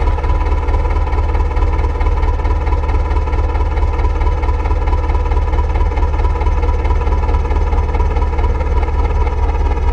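Heavy diesel engine running steadily at constant speed: a low, rapidly pulsing rumble with a steady whine on top.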